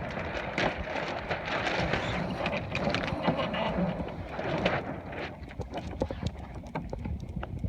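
Sails of a Siren 17 sailboat flapping as the boat comes about through the wind, with irregular knocks and rattles over steady wind on the microphone.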